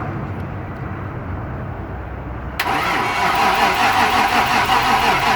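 1995 Ford Mustang's 5.0-litre V8 being cranked on its starter motor, starting suddenly about two and a half seconds in and running for about three seconds without the engine catching. It is a crank-no-start: there is no spark, which the owner traces to a damaged ignition coil.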